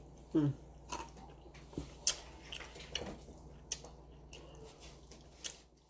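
Close-up chewing of a crunchy fried taco shell, with sharp crunches every second or so.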